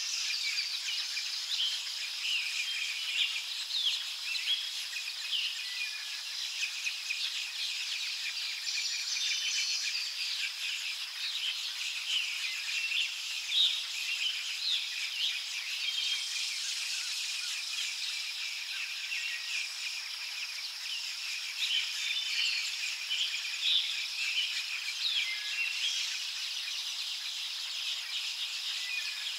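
A chorus of birds, many short chirps and calls overlapping, over a steady high-pitched insect drone.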